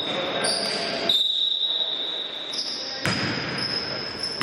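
Basketball game in a gym hall: a ball bouncing on the wooden court, long high squeaks and a murmur of voices in the hall's echo.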